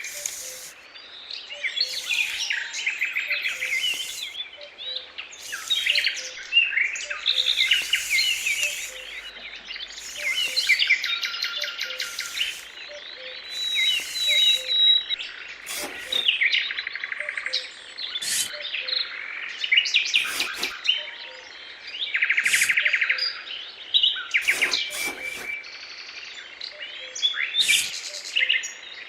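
Many small songbirds chirping and singing in quick, overlapping calls and trills. From about halfway through, a few short sharp clicks or knocks cut in among them.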